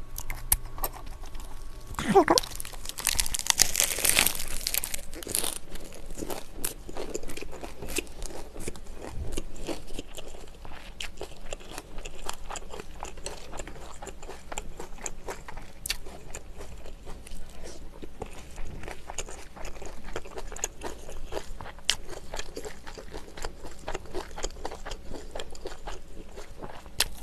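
Close-up crunching as a large ssam wrap of fresh leafy greens and grilled pork is bitten into, loudest about two to five seconds in. Steady chewing with many small wet clicks follows.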